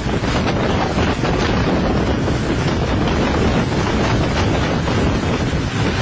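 Strong gusty wind buffeting the microphone, a loud, steady roar without a break.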